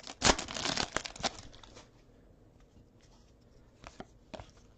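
Crinkling and tearing of a trading-card pack's foil wrapper for about the first two seconds, then a few faint ticks.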